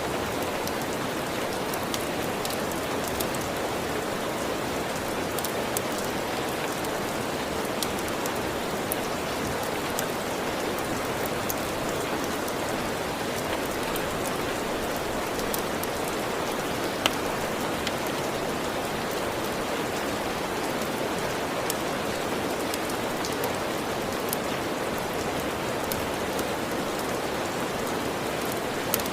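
Steady rain ambience: an even hiss of rainfall with scattered sharp ticks and pops throughout, one louder pop a little past the middle.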